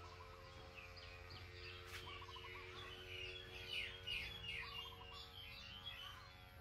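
Small birds chirping, with a flurry of quick falling chirps in the middle, over soft background music with sustained notes.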